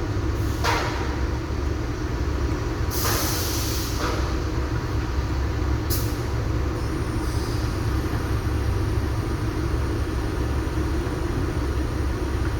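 Heavy truck engine running with a steady low rumble, with short air-brake hisses about a second in and again around three and four seconds in.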